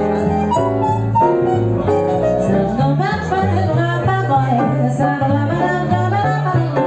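A small jazz combo playing a swing tune: a walking bass line steps note by note under piano chords and a melody line.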